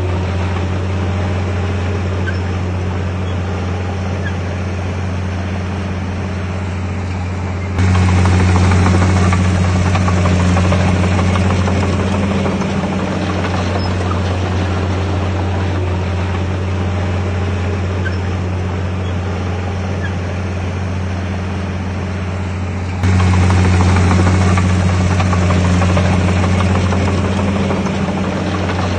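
Bulldozer's diesel engine running steadily with a deep hum. It jumps louder suddenly about 8 seconds in and again about 23 seconds in, easing back over several seconds each time.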